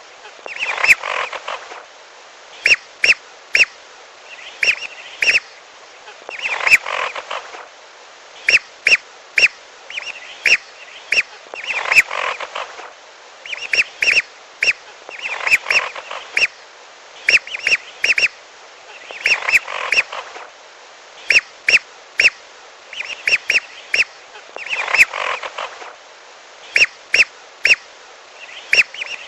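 Recorded calls of whistling ducks (belibis) played as a hunting lure. Quick groups of two to five short, sharp whistled notes alternate with brief raspier chatter, repeating about every two seconds.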